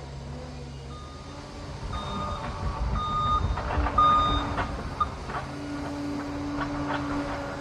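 Liebherr PR 746 crawler dozer backing up: its reversing alarm beeps five times, about a second apart, over the steady running of the diesel engine. The engine rumble grows heavier in the middle of the beeping, and a few clanks follow after the beeps stop.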